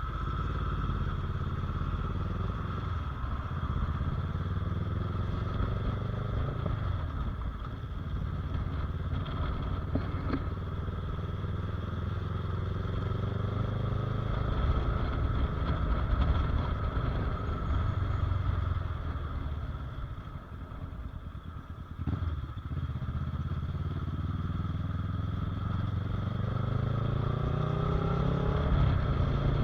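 Motorcycle engine running while being ridden, its note rising and falling with the throttle. It drops off a little after two-thirds of the way through, then builds again toward the end.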